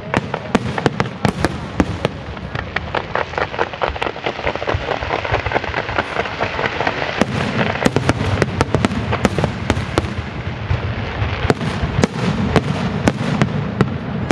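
Fireworks display: a rapid, continuous string of sharp bangs and cracks, several a second, over a dense crackling hiss that is thickest in the middle.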